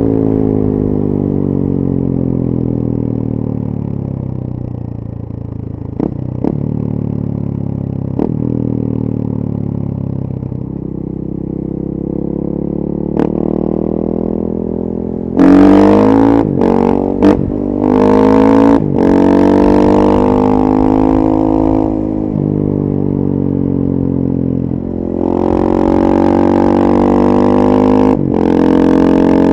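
KTM 450 EXC's single-cylinder four-stroke engine through a full FMF exhaust, ridden: the engine note falls as it slows off the throttle, with a few sharp cracks, then runs at low revs. About halfway it is opened up hard, with quick gear changes that briefly cut the sound. It eases off and pulls hard again near the end.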